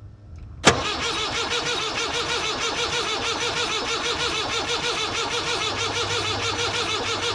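Perkins 4.203 four-cylinder diesel in a 1962 Lancing Bagnall forklift being cranked on its electric starter: a sharp click as the starter engages, then the engine turning over steadily with a rhythmic rise and fall but never firing, a no-start.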